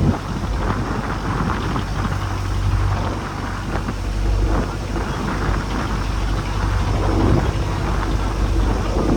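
Fishing boat's engine running with a steady low hum under a continuous rush of wind and rough sea.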